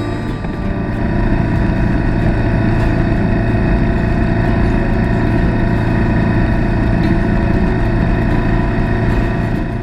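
BMW adventure motorcycle running steadily while riding, heard from on board, its engine note holding constant at a steady speed.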